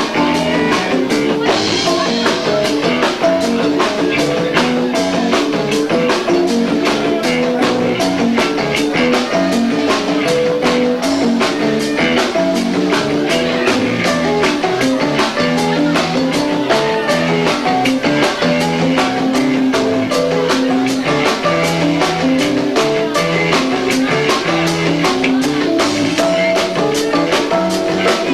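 Live rock band with two drummers playing: fast, dense drumming under a stepping melodic line on bass and keys or guitar, recorded lo-fi on a 1990s camcorder's built-in microphone.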